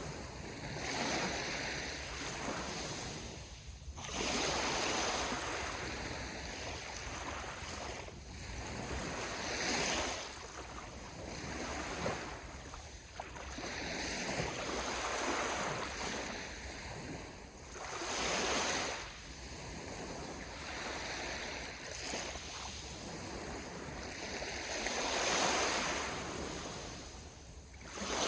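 Ocean waves breaking and washing on the shore, the surf surging up every few seconds.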